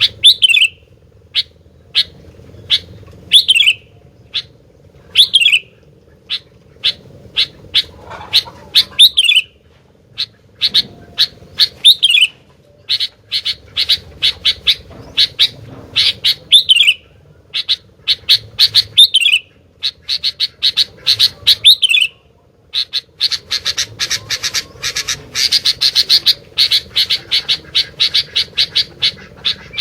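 Sooty-headed bulbul (kutilang) singing vigorously: sharp chirps with short falling phrases every second or two. About three-quarters of the way through it breaks into a fast, unbroken run of chirps.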